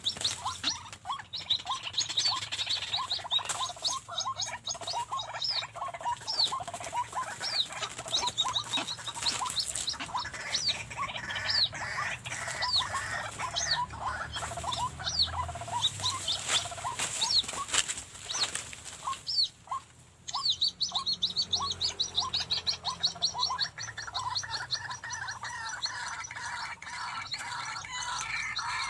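White-breasted waterhens calling in long runs of quick, repeated notes, the chorus pausing briefly about twenty seconds in before starting again.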